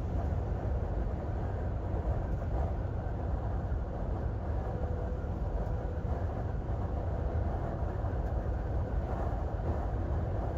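Steady low rumble of a vehicle moving along the road, engine and tyre noise with no sudden sounds.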